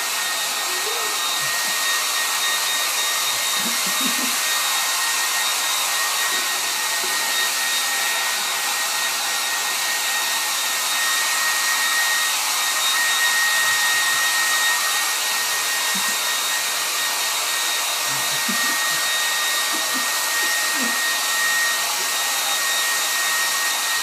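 Hair dryer running steadily: a constant rush of blown air with a thin, steady high whine.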